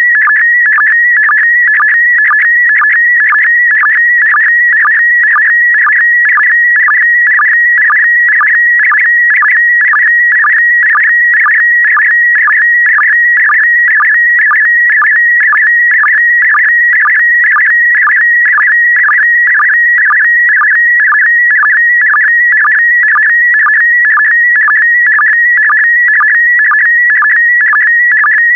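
PD120 slow-scan television (SSTV) image signal: a warbling tone held near one high pitch as it carries the picture's brightness and colour, broken by short low sync blips about twice a second that mark each pair of scan lines.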